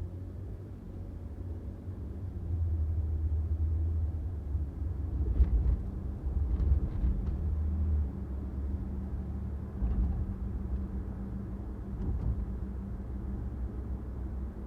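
A car driving on a city street: a low rumble of engine and tyre road noise that swells between about two and eight seconds in, with a few faint clicks.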